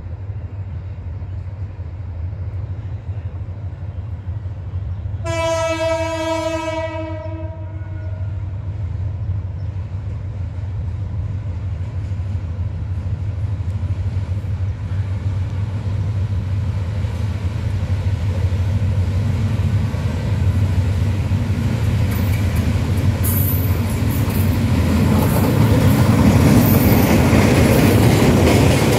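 Diesel locomotive hauling a train of oil tank wagons, its engine droning steadily as it approaches. It sounds one horn blast of about two and a half seconds about five seconds in. The noise then builds steadily as the train nears, ending with the loaded tank wagons' wheels rolling past on the rails.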